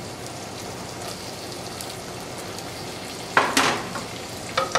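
Small onions and curry leaves sizzling steadily in hot oil in a terracotta clay pot. About three and a half seconds in, a wooden spatula stirs the pot, making a sudden loud scrape, and a shorter one follows near the end.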